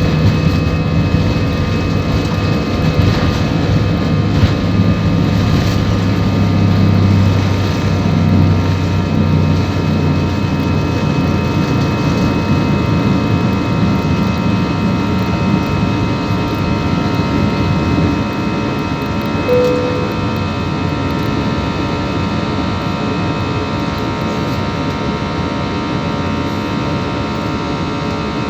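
Airbus A320 jet engines running at takeoff power, heard from inside the passenger cabin: a loud, steady noise with a low rumble that eases about two-thirds of the way through.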